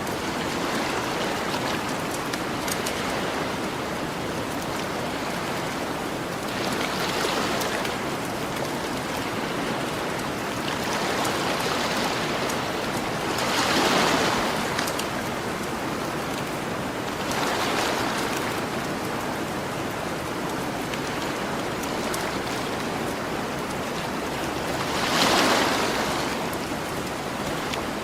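Gentle ocean waves washing onto the shore in a steady rush, swelling every few seconds, with a campfire crackling faintly.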